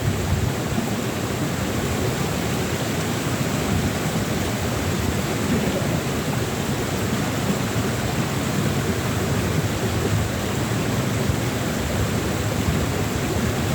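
Wind buffeting the microphone: a steady rushing noise with a restless low rumble.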